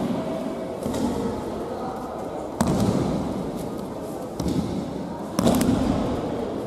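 Aikido breakfalls: bodies slapping and thudding onto tatami mats as partners are thrown, a sharp hit every two to three seconds with the sound ringing on in a large hall.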